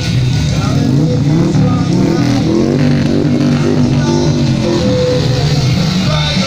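Motorcycle engines running, with revs rising and falling about halfway through, over music.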